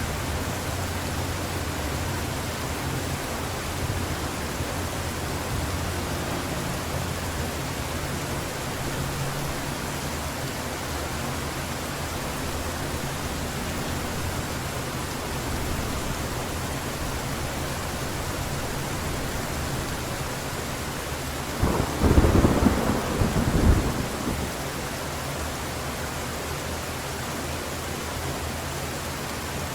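Heavy rain falling steadily, with a low thunder rumble in the first part. About three-quarters of the way through comes a loud thunderclap of several cracks lasting about two seconds.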